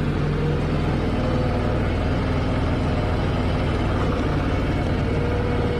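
Argo amphibious ATV's engine running steadily with the machine afloat: a loud, even, low drone.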